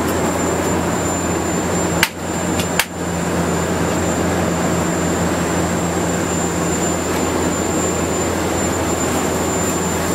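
Steady cabin drone of a Boeing 737-600 in flight, heard from the rear cabin: even engine and airflow noise with a thin high whine running through it. Two sharp clicks come about two and three seconds in.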